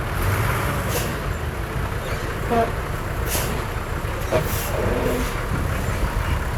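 Heavy diesel earthmoving machinery (bulldozer and dump trucks) running steadily, with short sharp clicks or hisses every second or two.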